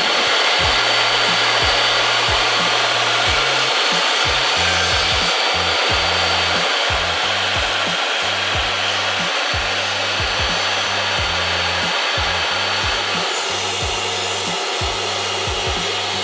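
Table saw running steadily, a continuous loud whir with a faint high whine, as it trims the flanges of mainsail slides. A music bass line plays underneath.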